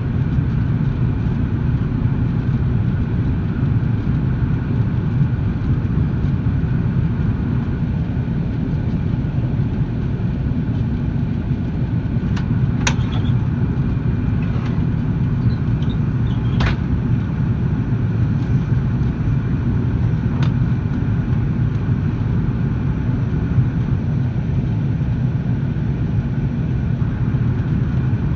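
Airbus A330 jet airliner in flight: a steady, unchanging low rumble of engines and airflow, with two sharp clicks midway.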